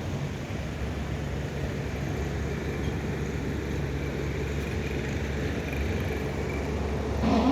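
Diesel engine of a front-end loader running steadily with a constant low hum.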